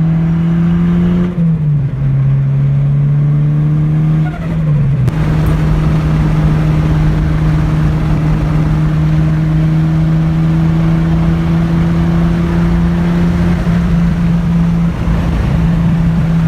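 Turbocharged four-cylinder engine of a 1996 Acura Integra pulling on the road. Its pitch drops at two gear changes, about one and four seconds in, then holds a steady drone under growing road and wind noise.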